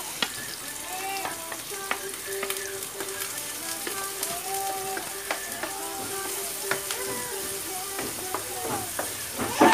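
Beaten egg mixture with tomato, onion and garlic sizzling in a hot nonstick frying pan on a gas burner. A wooden spatula stirs it, with scattered light scrapes and taps against the pan.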